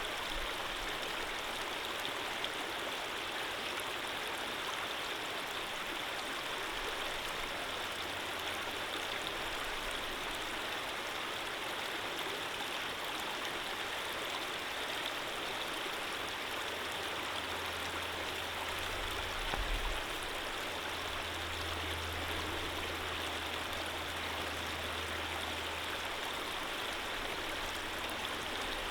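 Steady rushing of a flowing stream, an even hiss of running water with no breaks. A low rumble joins in past the middle and fades near the end.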